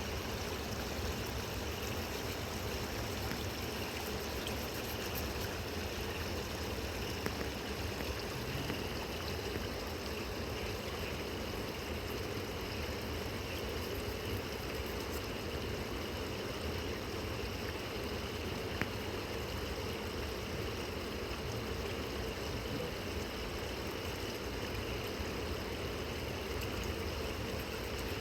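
Flowing river water, a steady rushing with no change over the stretch, with a few faint clicks near the middle.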